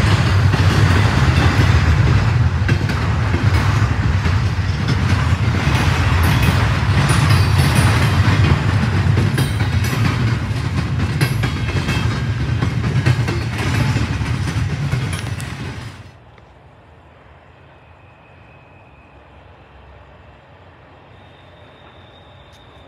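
Double-stack intermodal freight train's well cars rolling past, loud wheel rumble with irregular clicking and clatter over the rails. The sound cuts off suddenly about 16 seconds in, leaving only faint background noise.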